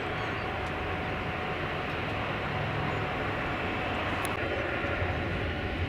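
Boeing 717's Rolls-Royce BR715 turbofan engines running at departure power, a steady dense jet noise with a low hum underneath. A higher whine joins about four seconds in.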